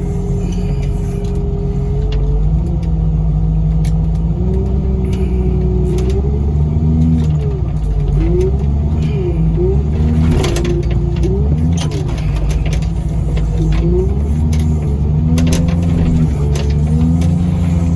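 Loader engine running hard, its pitch rising and falling again and again as the machine pushes and lifts with its forks on a truck body, with a sharp knock about ten seconds in.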